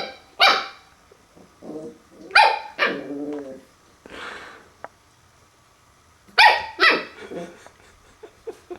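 A puppy barking at his own reflection in a mirror: four short, sharp barks in two pairs, with a lower growly sound just after the second bark.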